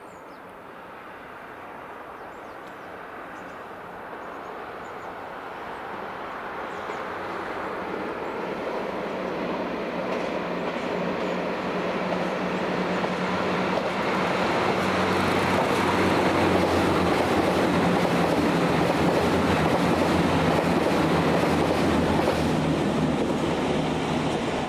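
Diesel limited-express train approaching and passing, its engines droning under rail and wheel noise. The sound swells steadily for about fifteen seconds, stays loud, then cuts off suddenly.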